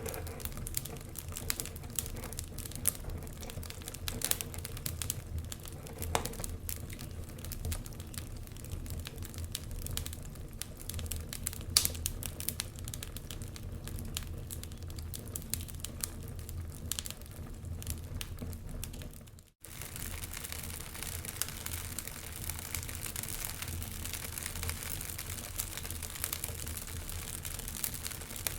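Wood fire burning in a fireplace, crackling and popping irregularly over a low rumble. About two-thirds of the way through, the sound cuts out for an instant and comes back with more hiss.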